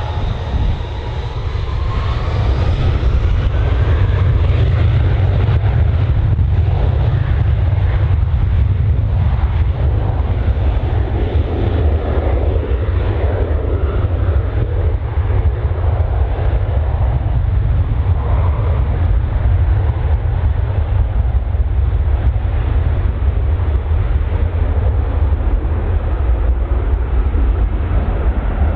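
Jet airliner engines at high power: a rising whine over the first few seconds, then a loud, steady rumble.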